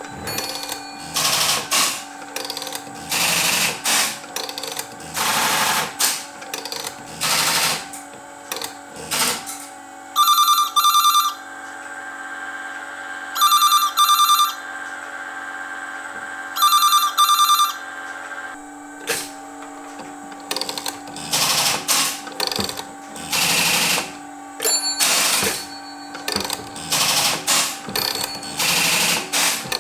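Strowger step-by-step telephone exchange switches clicking and rattling as they step. In the middle a telephone rings three times, each ring about a second long and about three seconds apart.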